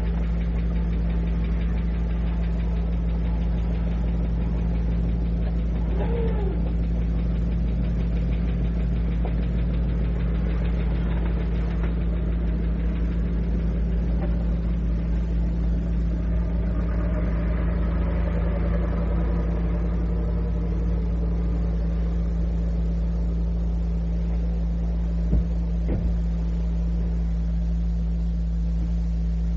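Steady low mechanical hum and rumble, recorded on cassette, with a swell of broader noise rising and fading a little past the middle and two faint clicks near the end.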